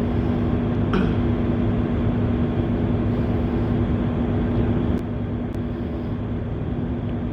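Tugboat engine running steadily underway, a constant drone with a low steady hum over a rumble; it drops slightly in level about five seconds in.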